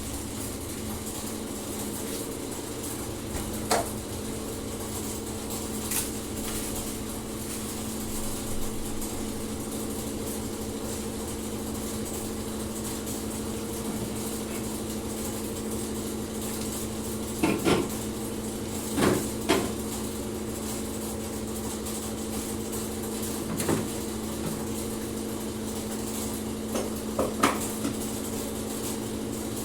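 Dishes and kitchenware being handled: a few scattered clinks and knocks, two close together at about 19 seconds, over a steady low hum.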